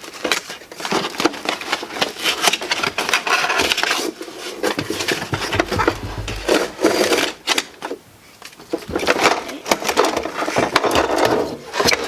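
Cardboard packaging scraping and rustling, with frequent clicks and knocks from the plastic toy food truck, as it is worked out of its box by hand; a low bump-like rumble comes near the middle.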